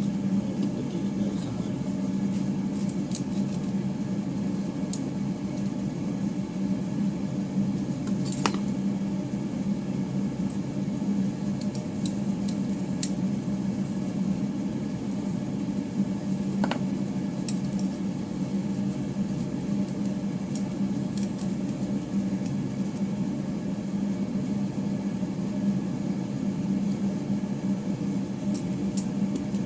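A steady low hum, like a fan or small motor running, with a few faint light clicks; the sharpest click comes about eight seconds in.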